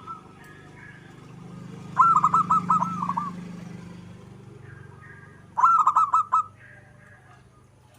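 Zebra dove (perkutut) singing: two quick phrases of rapid repeated cooing notes, about three and a half seconds apart, over a faint low hum.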